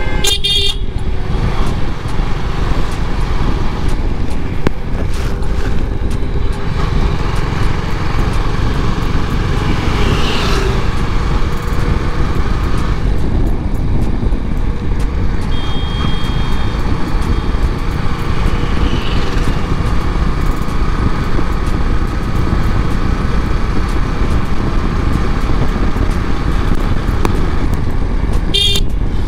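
Motorcycle riding through traffic: steady wind and road rumble on the rider's microphone, with short vehicle horn toots near the start, about halfway and near the end.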